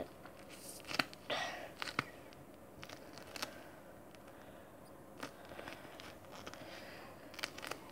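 Faint handling noises: scattered small clicks, with a brief scrape or rustle about a second and a half in.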